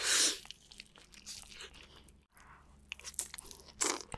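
Close-miked eating of spicy glazed BBQ chicken: a loud biting crunch at the very start, then chewing with crackling, crunchy mouth sounds and a couple of louder crunches near the end.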